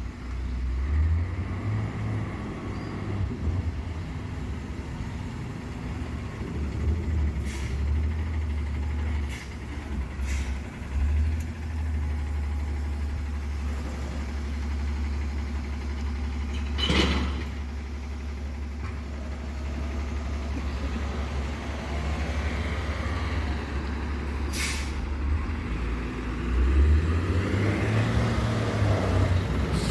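A truck's engine running with a steady low rumble, with a few short sharp clicks or knocks over it, the loudest just past halfway.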